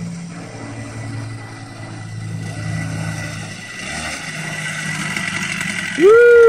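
Small kids' dirt bike engine running, its pitch rising and falling as the rider goes. Near the end a person lets out a loud, falling "woo!" cheer.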